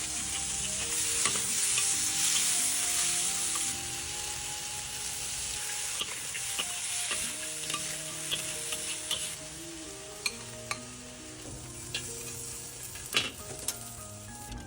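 Shrimp sizzling in a hot wok as they are stir-fried, with the spatula clicking and scraping against the pan. The sizzle is strongest for the first few seconds, then eases.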